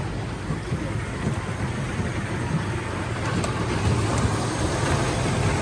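A children's ride-on choo-choo train running: a steady rumble that grows slightly louder.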